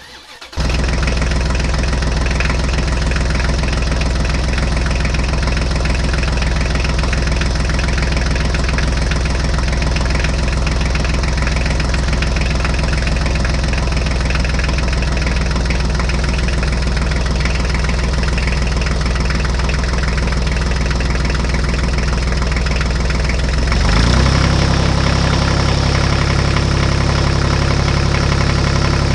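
A vehicle engine idling steadily, which shifts to a higher, steady running pitch about 24 seconds in and begins to rise near the end.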